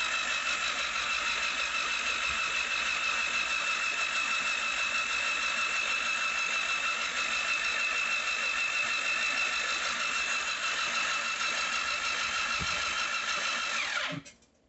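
Electric starter motor of a rebuilt Yamaha GP HO personal watercraft engine cranking the engine over without it firing, a steady whine that holds one pitch, to pump oil up to the camshafts before first start. It stops abruptly near the end.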